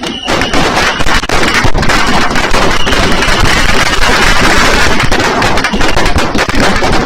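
Fireworks and firecrackers going off in a dense, continuous barrage of rapid bangs and crackling, very loud, after a brief lull right at the start.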